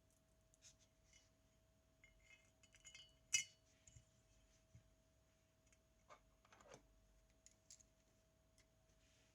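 Faint scattered clicks and taps of small parts being handled, with one sharp click about three and a half seconds in, over a faint steady hum tone.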